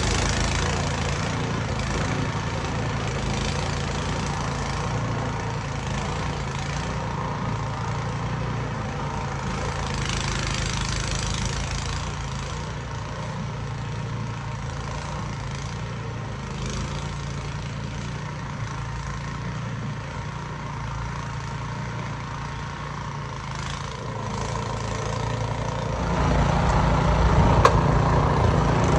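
Snowblower engine running steadily under load, getting louder about 26 seconds in.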